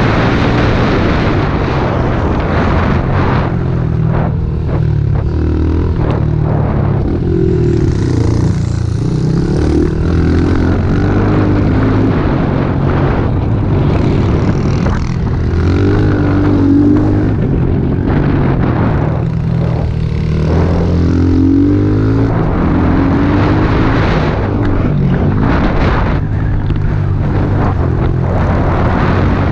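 Small single-cylinder four-stroke pit bike engine being ridden hard, its pitch rising and falling again and again as the throttle is opened and closed.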